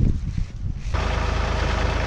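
A few low thumps, then about a second in the John Deere 3046R tractor's diesel engine cuts in abruptly and runs steadily.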